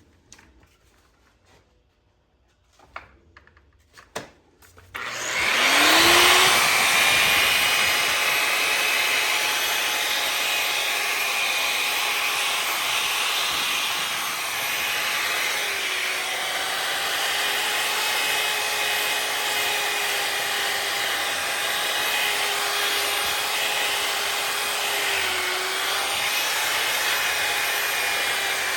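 A few handling clicks, then about five seconds in a variable-speed grinder spins up with a rising whine and runs steadily. Its sanding pad grinds against a cast iron skillet, sanding it down to bare metal.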